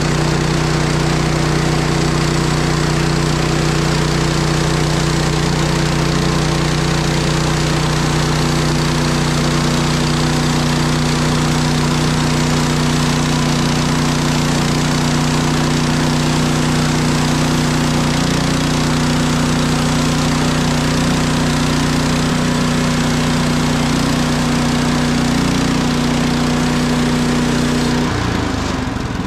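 Woodland Mills HM130MAX portable bandsaw mill running at high throttle, its blade cutting through a spruce log. A little before the end the engine drops in pitch and the cutting noise falls away as it throttles down toward idle.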